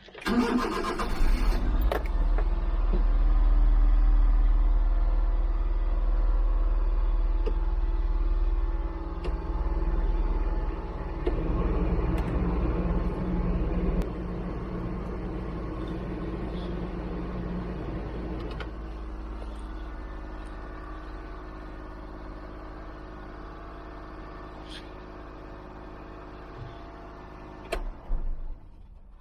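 Honda Acty kei truck's engine starting with a brief burst of noise, then running steadily with its newly fitted fan belt; the low rumble eases slowly in level as it goes on.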